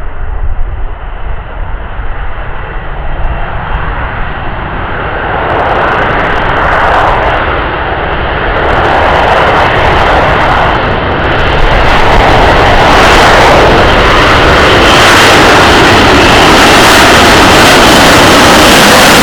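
Military jet aircraft engine roar, building up from about five seconds in until very loud and steady for the second half, with a faint high whine running through it.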